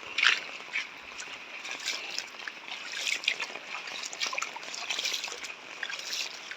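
Rainwater trickling, with many irregular small drips and splashes over a steady hiss.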